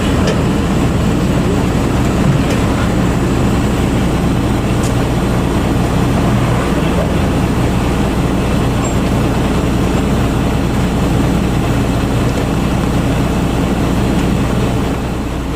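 Truck diesel engine idling steadily, a constant low hum with no change in speed.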